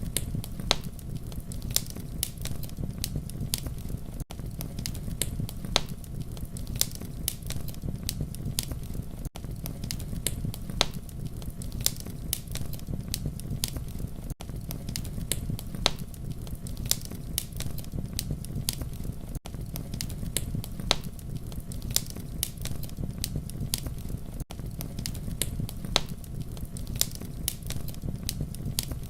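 Campfire crackling: a steady low rumble of flames under frequent sharp pops and snaps. The level dips briefly about every five seconds.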